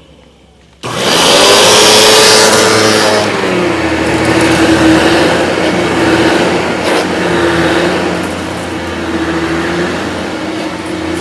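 Vorwerk VK121 upright vacuum with ET340 powerhead switched on about a second in. It starts loud, then settles into a steady motor hum and whine as it runs over carpet.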